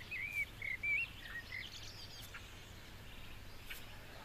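A songbird chirping a few short, wavering whistled notes in the first second and a half, over faint outdoor background noise.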